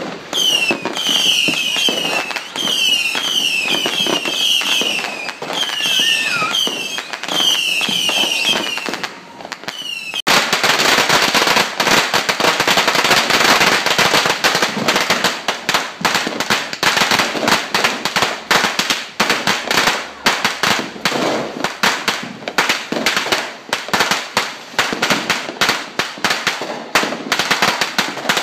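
Whistling fireworks from a multi-shot battery: quick clusters of falling whistles, each ending in a sharp pop. About ten seconds in, a long string of firecrackers starts, a dense, rapid crackle that goes on to the end.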